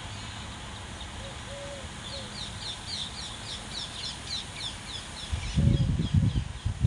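A bird singing a run of quick, high, falling notes, about three or four a second, over a steady outdoor hiss. Near the end, loud, low, irregular rumbling bursts take over and are the loudest sound.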